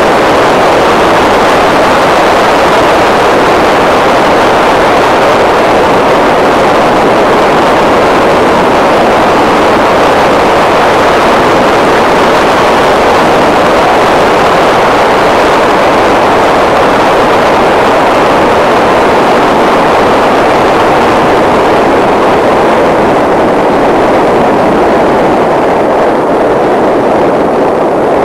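Loud, steady wind rushing over the camera microphone while riding a bike.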